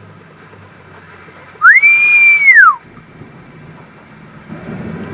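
A single whistle-like tone, about a second long, that glides up, holds steady, then glides down, with a click at its start and at its end. Near the end a low rumble comes up.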